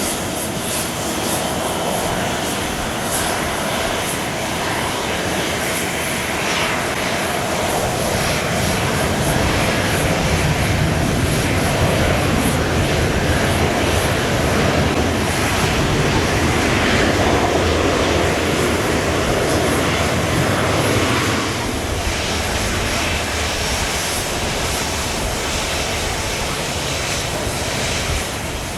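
Jet engines of a Boeing 777-300 with Pratt & Whitney PW4000-series turbofans running steadily. The sound grows louder for a stretch in the middle, then drops back about 21 seconds in.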